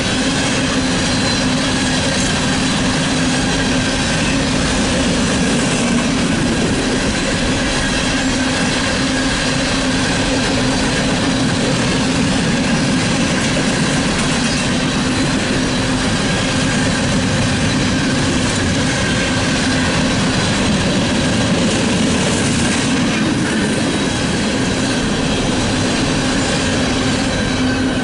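Freight train coal cars rolling past on steel wheels: a steady rumble and clatter of wheels on rail, with a steady whine over it.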